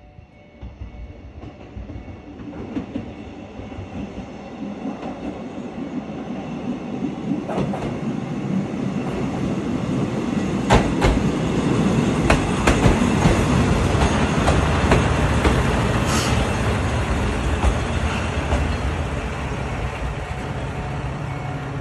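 A single diesel railcar runs into the station and draws alongside the platform, its engine and wheels growing louder for about twelve seconds. Sharp clicks come from the wheels over rail joints around the middle, and there is a brief high squeal about two-thirds through. Near the end the engine runs on steadily as the railcar slows past.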